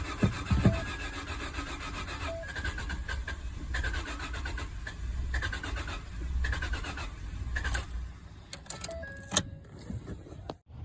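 The 2014 Ford F-150's 3.7 L V6 being cranked by its starter, turning over with a low, rapidly pulsing rumble but not running; the owner takes the failure to start for a bad fuel pump.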